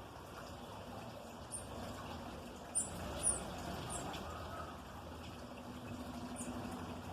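Small songbirds giving short, very high chirps, about five scattered through, the two loudest close together about three seconds in, over a steady low background hum.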